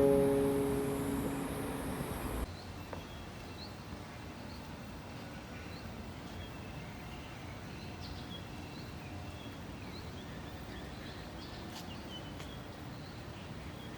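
Ukulele background music that cuts off abruptly about two and a half seconds in. Then outdoor ambience: a steady hiss with faint, short bird chirps now and then.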